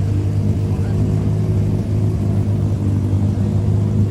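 Car engine running at a steady speed, an even low drone that holds without rising or falling.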